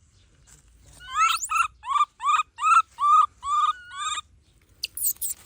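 Baby monkey calling: a run of about eight short pitched calls, roughly three a second, each rising then dropping in pitch, followed near the end by thin high squeaks.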